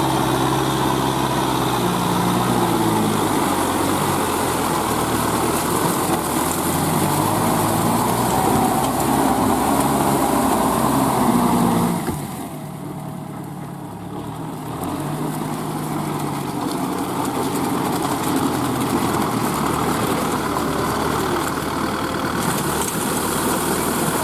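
Kubota M6040SU tractor's four-cylinder diesel engine running under load while rotary-tilling a wet paddy field, its pitch rising and falling. The sound drops off about halfway through and builds back up a few seconds later.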